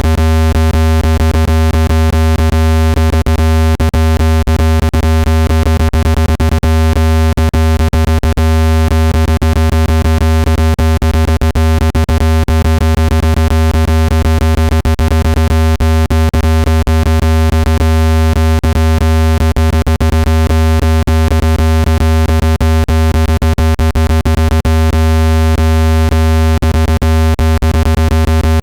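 Synthesized speaker-cleaning tone: a loud, steady low hum with evenly spaced overtones, crackling with rapid irregular clicks, made to vibrate dust out of a phone speaker when played at maximum volume.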